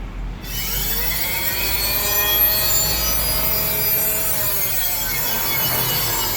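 Electric end cutter of a fabric spreading machine running: its motor whine rises as it starts about half a second in, holds steady with a rubbing, sawing noise from the blade, and sinks in pitch near the end.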